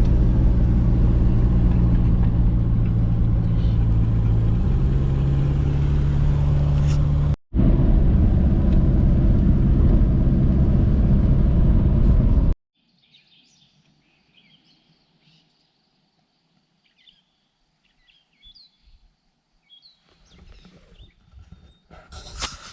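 Car engine and road noise heard from inside the cabin while driving: a steady low drone whose pitch steps up about a fifth of the way in, cut off abruptly just past halfway. Then quiet outdoors with small birds chirping faintly.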